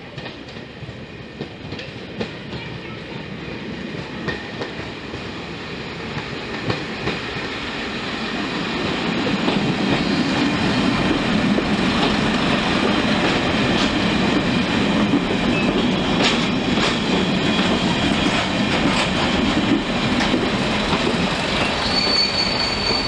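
Heritage diesel multiple unit approaching and running past, growing louder over the first ten seconds and then holding steady. Its wheels click over the rail joints throughout, and a thin, steady wheel squeal starts near the end.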